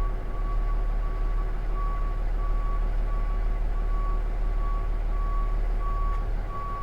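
Box truck's backup alarm beeping steadily at an even pace as the truck reverses slowly into a loading dock, over the low, steady running of its engine.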